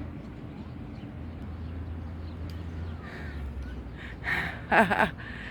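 Two harsh crow caws in quick succession about four and a half seconds in, over a steady low background rumble.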